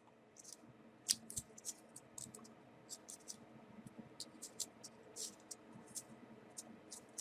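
Faint, irregular clicks and crinkles of small folded paper 3D origami pieces being handled and pressed into place, the sharpest click about a second in.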